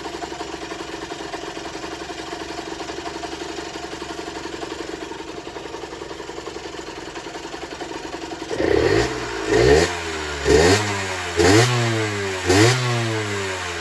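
Generic Trigger SM 50cc two-stroke engine idling steadily, then blipped five times from about eight and a half seconds in, each rev rising and falling back to idle. It is running smoothly now that its blocked main and pilot jets have been cleared and an intake-manifold air leak fixed.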